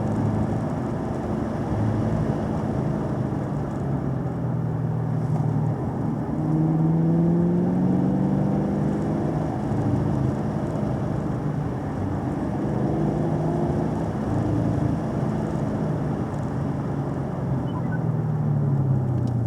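Car engine under way, its pitch rising and falling several times as the car accelerates and eases off through curves, over steady road and tyre noise.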